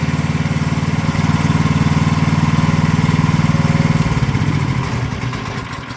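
Mini excavator engine idling steadily, then shut off about four seconds in and running down, fading out near the end.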